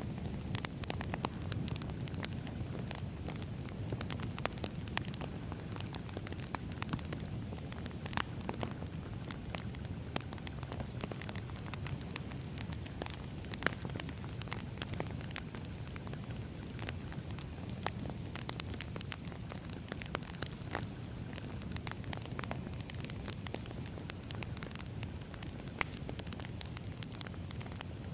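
Firewood burning: a steady low rumble of flames with frequent sharp crackles and pops, two louder pops about halfway through and near the end.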